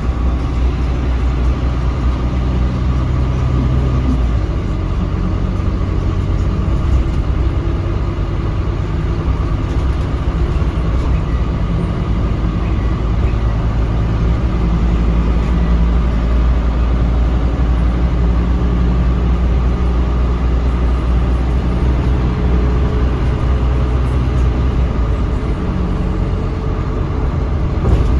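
Scania K310UB bus's diesel engine running, heard from inside the bus as it drives, with the low engine note shifting in pitch as the bus changes speed.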